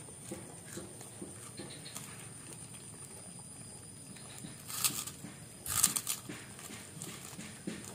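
A young child chewing a crunchy kerupuk cracker in a steady rhythm of soft mouthfuls, with two louder crackling bursts about five seconds in and again a second later.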